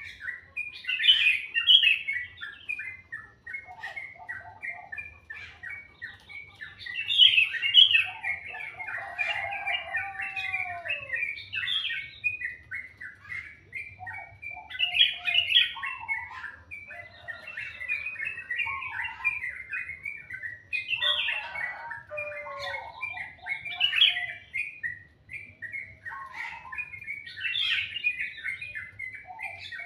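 Songbirds chirping and singing, several calls overlapping: a dense run of quick high chirps with louder song phrases every few seconds and a few lower whistles that slide downward.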